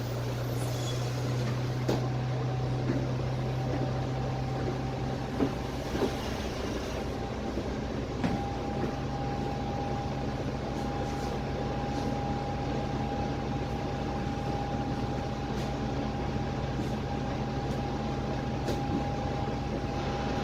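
Dennis Trident double-decker bus with a Cummins ISMe diesel engine, running on the road as heard from inside the lower deck. A steady low drone carries a thin steady whine above it that grows stronger about eight seconds in, with a few knocks and rattles from the body.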